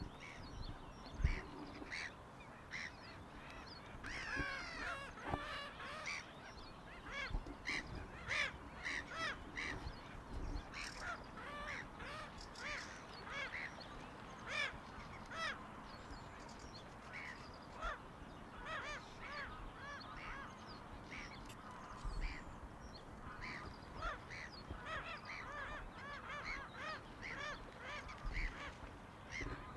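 Birds calling at a lake: many short calls in quick, overlapping succession.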